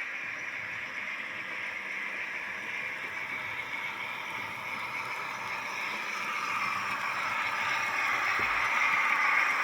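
Model V142 SerFer locomotive running along the layout track, a steady whir and rattle of its motor and wheels that grows louder in the second half.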